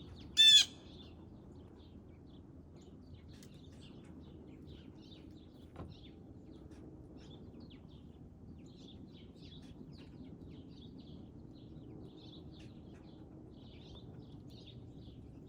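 Wild birds chirping in many faint, quick high notes, with one loud, short, harsh call about half a second in. A low, steady outdoor background noise sits underneath.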